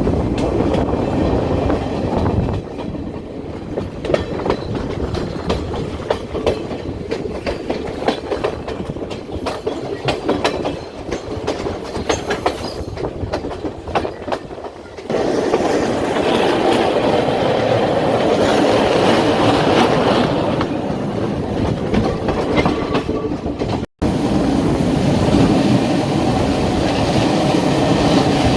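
Passenger train running on the rails, its wheels clicking over rail joints. The running noise turns louder and denser about halfway through, and breaks off for an instant near the end.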